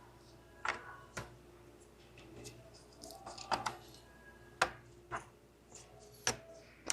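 Sharp plastic clicks and knocks, about seven spread irregularly, from wiring-harness connectors being handled and pushed onto an engine's ignition coil and injector plugs, over a faint steady hum.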